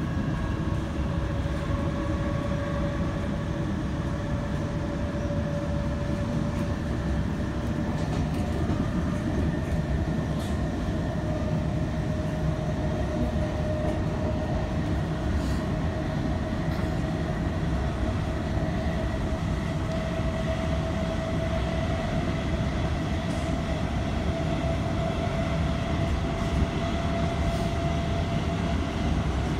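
Inside an electric passenger train running along the line: a steady rumble of wheels on track, with a motor whine that rises slowly in pitch as the train gathers speed, and a few faint clicks.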